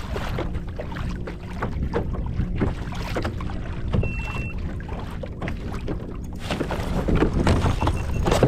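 Water splashing and lapping against a kayak hull under way, with wind buffeting the microphone. There is a short high beep about four seconds in, and the splashing grows louder near the end.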